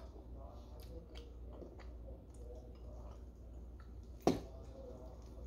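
Quiet eating sounds: chewing and fingers pulling apart barbecue ribs, with small scattered clicks and one sharp click about four seconds in, over a low steady hum.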